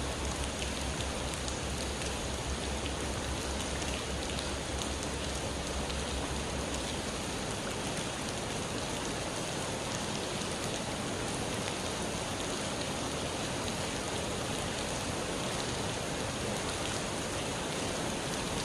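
Steady spring rain falling and pattering on surfaces. A low rumble underneath drops away about seven seconds in.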